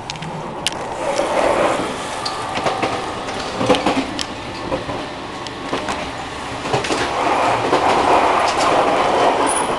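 Running noise of a JR Kyushu 883 series 'Sonic' electric train heard from inside while it is moving: a steady rumble with scattered sharp clicks and rattles. It grows louder about a second in and again later on, as the vestibule between cars is entered.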